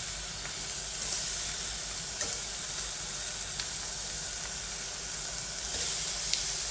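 Raw prawns sizzling steadily as they are laid one by one into a hot frying pan, with a few light ticks as they go in.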